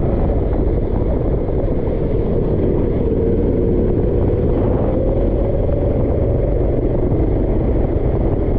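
Go-kart engine running under load during a race, its pitch climbing slowly and then easing off about five seconds in, over a dense low rumble.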